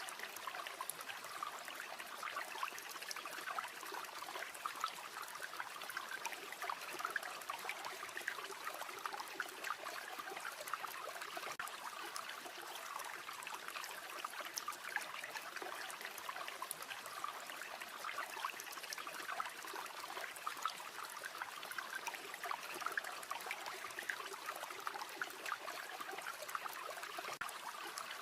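Steady babbling rush of a river flowing over rocks, with many small crackles and pops from a wood campfire scattered throughout.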